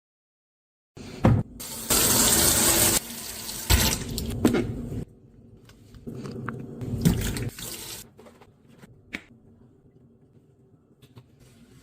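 Water running from a tap into a sink in several spells that start and stop abruptly, with a few knocks. A quieter stretch with faint clicks follows near the end.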